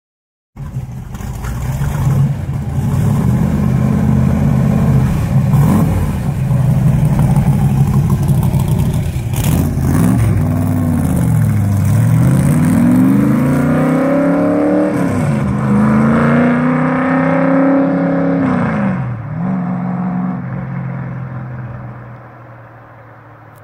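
Cobra replica roadster's engine running with a steady deep rumble, revved up and down about three times in the second half, then fading away near the end.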